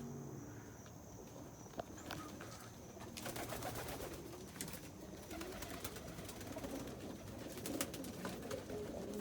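Homing pigeons cooing in a loft, low wavering calls overlapping, with scattered light taps and rustling among them.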